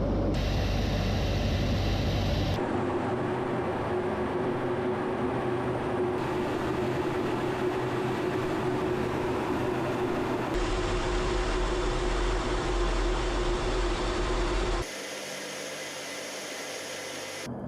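Steady military aircraft engine noise in several clips that cut abruptly from one to the next, some with a steady hum running through them.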